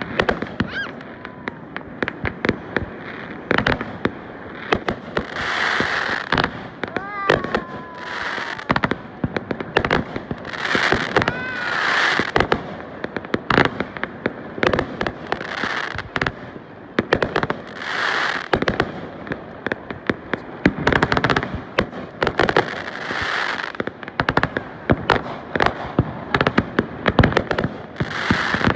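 Fireworks display: a rapid, irregular string of sharp bangs mixed with swelling crackling bursts, several every few seconds.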